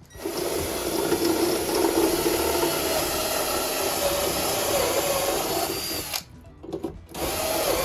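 Power drill running under load as it bores a hole, its motor pitch wavering; it runs about six seconds, stops briefly, then starts again.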